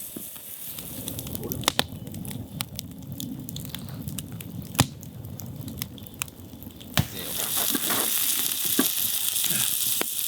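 Fire crackling with sharp pops over a low rumble. About seven seconds in, a steady sizzling hiss of food grilling over the fire starts.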